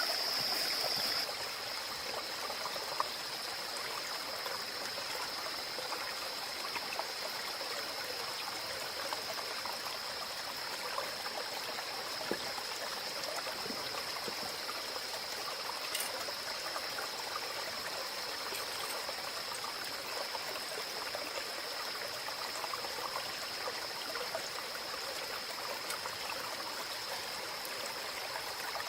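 Steady trickling, running-water noise with a steady high-pitched tone over it; the tone is louder for about the first second.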